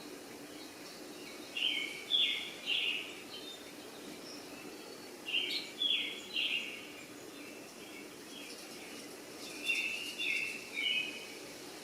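A bird calling in quick groups of three or four short chirps, a group about every four seconds, over a steady low background hum.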